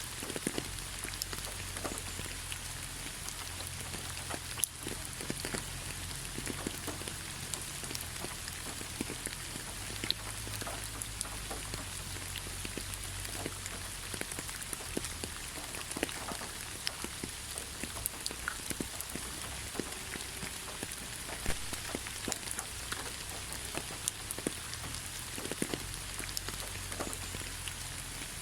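Steady rain falling, with many scattered drop impacts ticking over an even hiss and a low rumble underneath.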